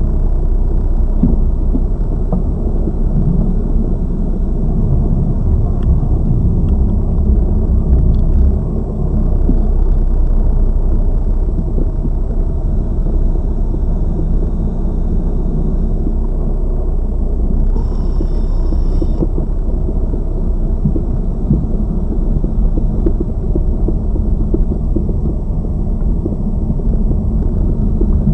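Road and suspension noise of a Lada Vesta Cross driven over bumps, picked up at a front strut top mount: a loud steady rumble with faint clicks and rattles from the strut, recorded to check whether the suspension knock comes from this shock absorber.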